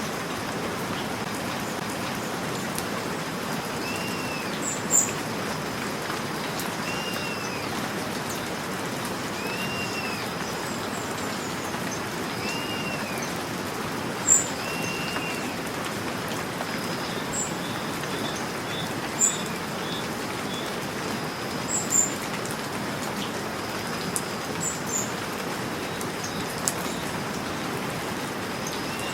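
Steady rain with birds calling over it: a short rising-and-falling call repeated about every three seconds for the first two-thirds, and scattered sharp high chirps that stand out above the rain.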